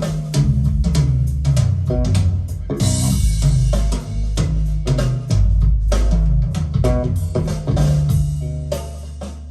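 Music with drum kit, bass guitar and guitar played back through Q Acoustics 3030i bookshelf speakers with a subwoofer: busy drum hits over a heavy bass line.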